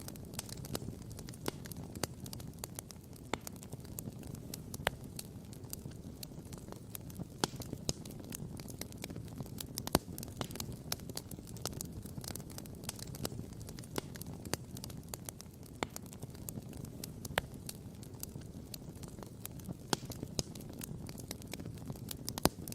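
Wood campfire crackling and popping steadily, with frequent small snaps and a few louder pops, over a steady low rumble.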